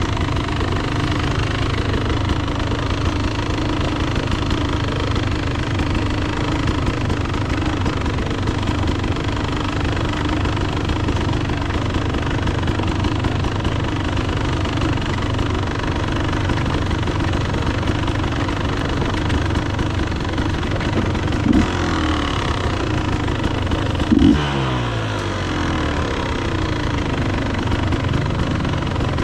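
Enduro dirt bike engine running steadily as the bike is ridden, with two short sharp revs about three seconds apart late on, the second falling away in pitch as the throttle closes.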